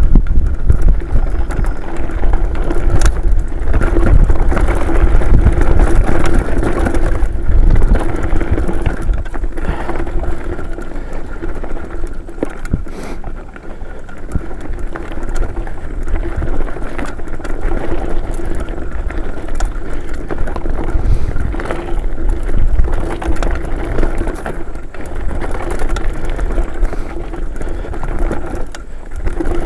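Mountain bike riding down a dirt trail: wind buffeting the on-bike microphone over the rolling of knobby tyres, with a steady hum and scattered knocks and rattles as the bike goes over bumps.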